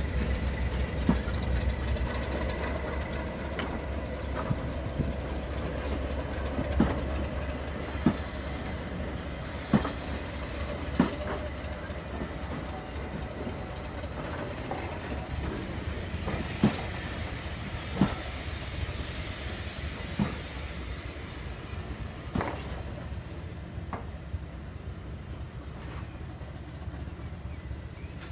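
Diesel-hauled passenger coaches rolling slowly past, their wheels knocking singly over the rail joints every second or two, over a low rumble that gradually fades.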